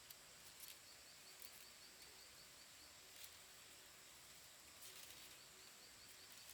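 Faint tropical forest ambience: a steady high insect drone with a quick, even series of high chirps over it, and a few faint clicks.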